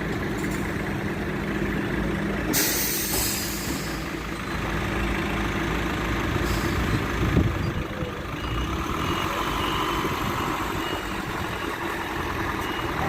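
Boom truck's engine running steadily, with a sharp hiss of released air about two and a half seconds in and a shorter one near the middle. Its reversing alarm starts beeping about two thirds of the way through and keeps repeating.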